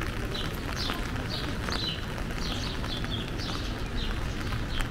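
Small birds chirping: short, high chirps about twice a second over a steady low rumble of city background noise.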